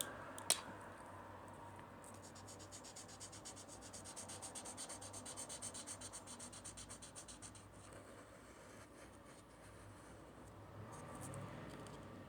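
A marker colouring on paper in rapid back-and-forth strokes, a faint, quick, even scratching that is strongest in the middle and tails off toward the end. There is a single light tap just after the start.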